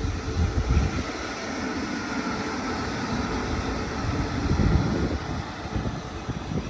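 A train running past, with a faint wavering whine over its noise and gusts of wind buffeting the microphone.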